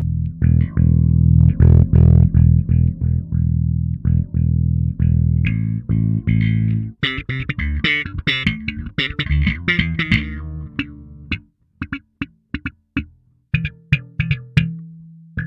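Electric bass guitar (a Bacchus Woodline headless with a Nordstrand Big Single pickup) played through a FLAMMA FC11 envelope filter / auto-wah pedal. A run of sustained low plucked notes gives way about seven seconds in to brighter, treble-heavy filtered notes, then to short staccato plucks with gaps between them near the end.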